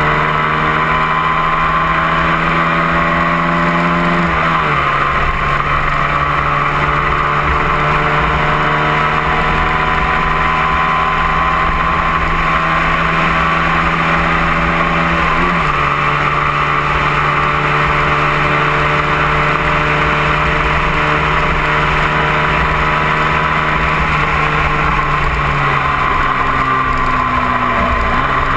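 Engine of a 250 cc sport motorcycle cruising on the highway, heard from the bike itself, with a steady engine note over constant wind rush. The engine pitch steps twice, about four seconds in and again around fifteen seconds, as with gear changes, and eases down near the end.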